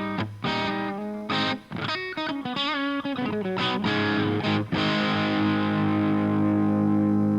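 Electric guitar through an Omega Series Micro amplifier on a distorted setting, heard through a Greenback cabinet impulse with added reverb. Short choppy chords and a wavering bent note, then a chord held and ringing out from about five seconds in.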